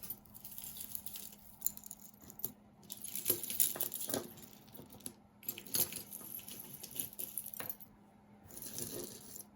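Costume jewelry clinking and jangling as pieces are handled and sorted: metal chains, bangles and beads knocking together in irregular bursts of small clicks and rattles.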